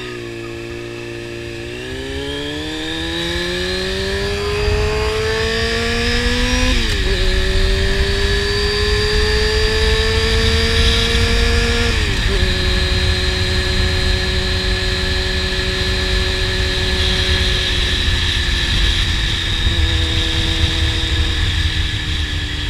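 Honda CBR600RR inline-four sport bike engine with a slip-on exhaust accelerating through the gears: the pitch climbs, drops sharply at two upshifts about seven and twelve seconds in, then holds at a steady cruise and eases off near the end. Wind rumble on the helmet-mounted microphone grows with speed underneath.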